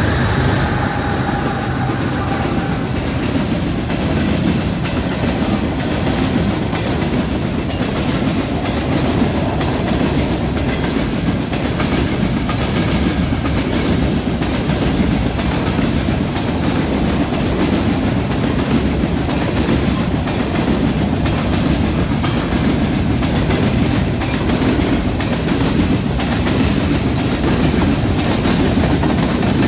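Long freight train of covered hopper cars rolling past close by: a steady rumble of steel wheels on rail with rhythmic clacking. The engine tones of the trailing locomotives fade away in the first couple of seconds.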